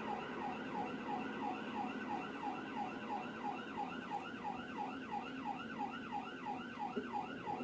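Police cruiser siren in fast yelp mode: a rapid, even string of rising sweeps, about three to four a second.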